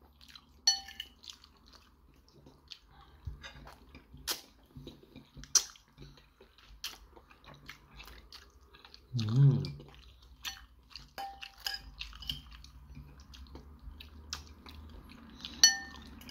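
Close mouth sounds of a man eating creamy carbonara pasta: wet chewing and smacking with scattered sharp clicks, and a short hum about nine seconds in.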